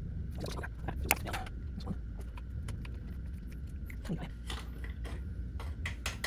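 Hands handling tools and small plastic and metal parts at the motorcycle's coolant overflow tank: scattered small clicks and rattles, with one sharper click about a second in and a short squeak about four seconds in, over a steady low hum.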